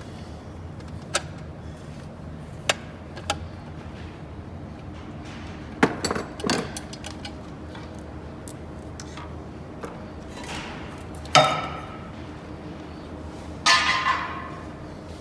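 Scattered metallic clicks and knocks of tools and engine parts being handled, with a few louder clinks that ring briefly, the loudest about two-thirds of the way through and another near the end.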